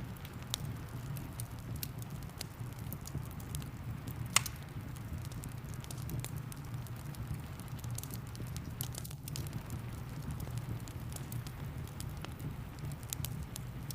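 Wood fire crackling, with scattered pops and one sharp pop about four seconds in, over a steady low rumble of rain and fire.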